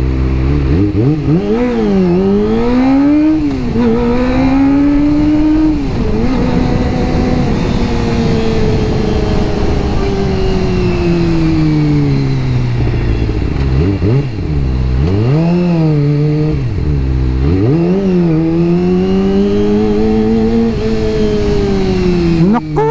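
Kawasaki ZX-25R's 250 cc inline-four engine, through an Akrapovic exhaust, revving up and down as the bike accelerates, shifts and slows. Long climbs and falls in pitch give way to several quick throttle blips in the second half and a sharp high rev near the end.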